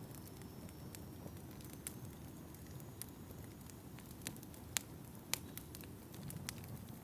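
Fire crackling in a fireplace: a steady low rumble of flames with scattered sharp pops, two of them louder a little past the middle.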